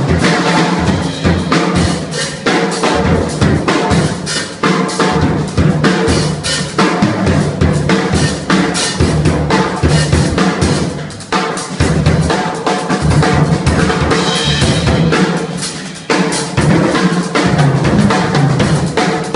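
Macassar ebony jazz drum kit played continuously in a dense pattern of bass drum and snare strokes, with rimshots. The playing briefly drops off twice, about eleven and sixteen seconds in.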